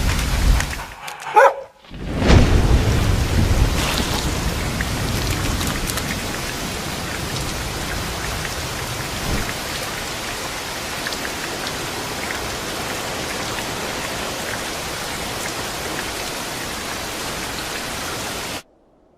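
Heavy rain falling steadily, with thunder rumbling at the start and again about two seconds in. A second and a half in there is a brief dog whimper. The rain cuts off suddenly near the end.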